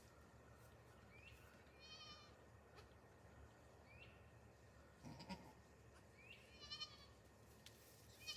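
Goat kids bleating faintly with high, quavering calls, twice: about two seconds in and again about six and a half seconds in. A short louder noise comes about five seconds in.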